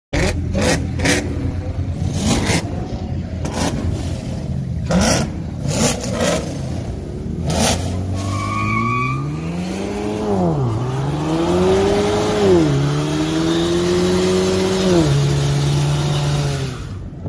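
Car engine revving up and down several times, its pitch rising and falling, after a series of sharp cracks in the first half; the sound cuts off suddenly near the end.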